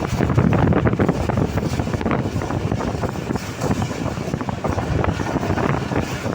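Train running at speed: a steady loud rumble full of irregular clattering, with wind buffeting the microphone.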